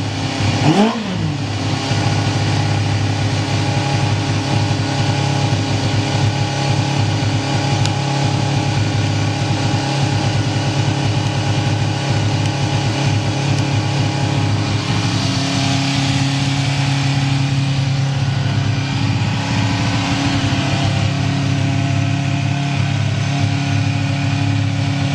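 Yamaha FZ250's inline four-cylinder engine blipped once, rising and falling quickly about a second in, then idling steadily with no abnormal noise.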